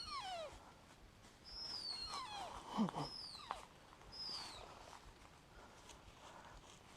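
Ruffed grouse giving high, falling squealing calls, about four of them in the first four seconds, with a lower falling call about three seconds in as the loudest sound, then fainter calling. It is a distraction display: the bird is feigning injury to draw intruders away from its nest.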